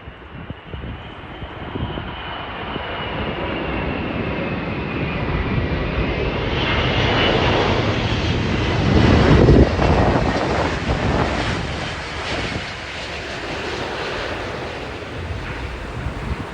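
Jet airliner passing overhead on its landing approach: its engines run with a high whine over a broad roar that builds to its loudest about nine to ten seconds in, then fades as it moves away.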